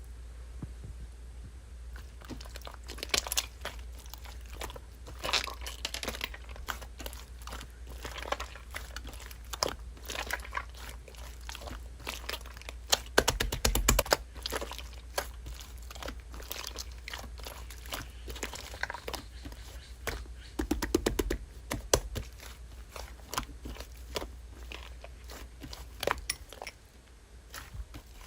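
Slime being squeezed and pressed by hand, with many small crackling and popping clicks over a low steady hum. The crackling comes in denser bursts about halfway through and again a little later.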